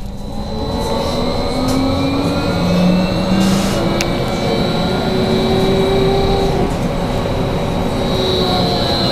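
BKM 43300D trolleybus running between stops, heard from inside the cabin: a steady rumble of road and body noise with several electric-drive whines that glide up and down in pitch as the speed changes, over a steady high whine. A single click about four seconds in.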